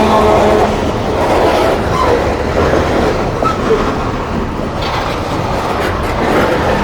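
Freight train cars rolling past close by: a steady, loud rumble of wheels on the rails.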